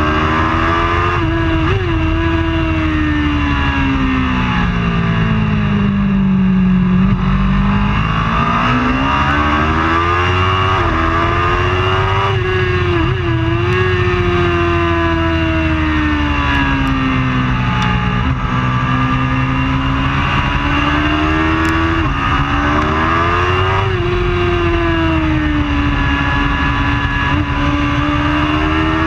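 Racing superbike engine at high revs, its pitch climbing and falling again and again as it accelerates and slows, with quick breaks in the note at gear changes.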